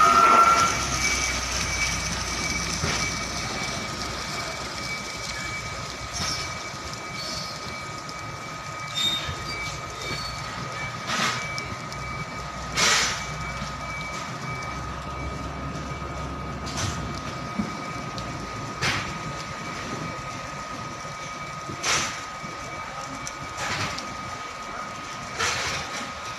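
Heavy vehicle running with a steady high whine and a low rumble, broken by sharp clanks every one to three seconds.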